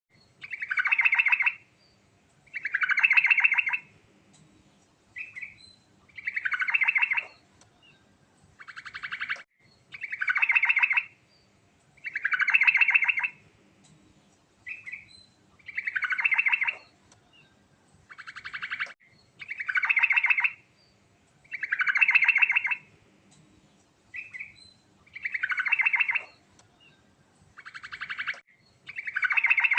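Yellow-vented bulbul (trucukan) singing: loud, rapid, bubbling phrases about a second and a half long, repeated roughly every two seconds, with short single notes in the gaps between.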